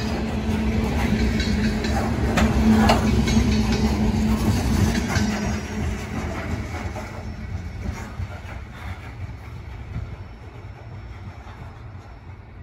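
Loaded coal hopper cars of a CSX freight train rolling past: a steady rumble and hum from the wheels on the rails, with a few sharp clanks in the first few seconds. The sound fades away in the second half as the end of the train passes and moves off.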